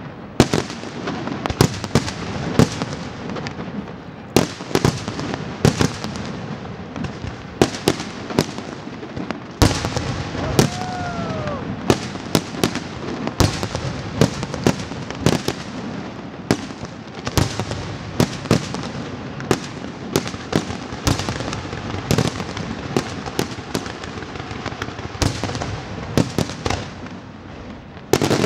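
Pirotecnia Martí aerial fireworks display: a continuous barrage of shell bursts, two or three sharp bangs a second over a crackling haze, growing louder about ten seconds in. A short falling whistle-like tone sounds about ten seconds in.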